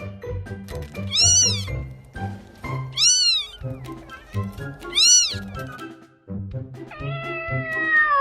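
A cat meowing over background music: three short high-pitched meows, each rising then falling, about two seconds apart, then a longer drawn-out meow begins near the end.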